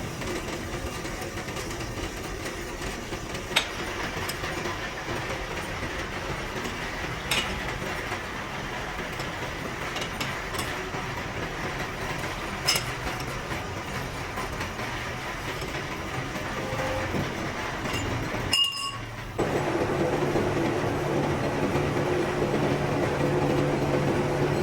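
Workshop machinery running steadily, with a few sharp metallic clinks. After a brief cut, a louder, steadier machine hum takes over near the end.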